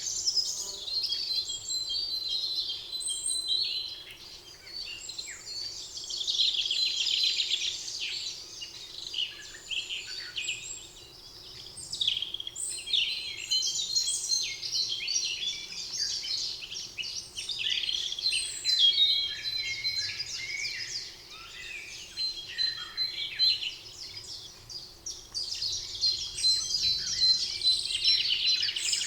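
Several songbirds singing over one another in a continuous chorus of chirps and rapid trills, with brief lulls. A thin, steady high note comes and goes beneath them.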